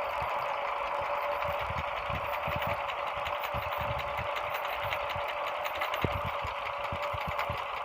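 Diesel engine running steadily while driving a tubewell water pump, with a low chugging pulse about two to three times a second over a steady mechanical clatter. A single sharp click about six seconds in.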